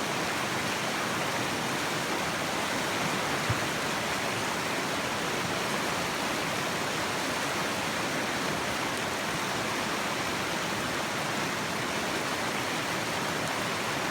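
Whitewater rushing steadily in a river rapid, with one short knock about three and a half seconds in.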